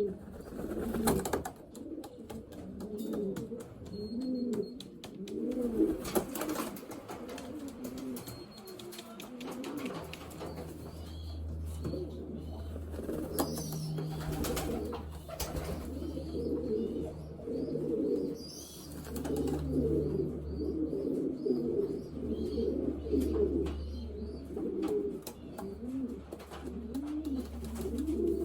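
Many racing pigeons cooing continuously, with a few sharp clicks and knocks. A low steady rumble joins about ten seconds in.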